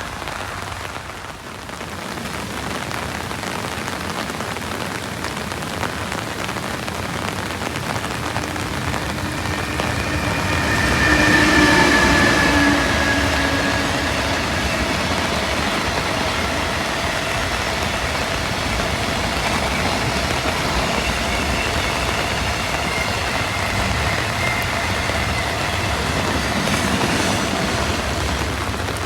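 An EH500 electric locomotive hauling a container freight train passes through heavy rain: the rumble builds, peaks with a whine about ten seconds in as the locomotive goes by, then the container wagons roll past steadily until near the end. Heavy rain falls throughout.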